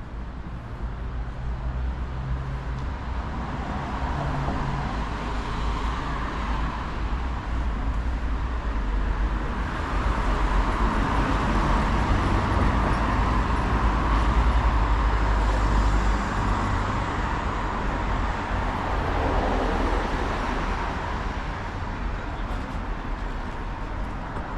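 Road traffic: a motor vehicle's low engine rumble and tyre noise swell to a peak about midway, then ease off.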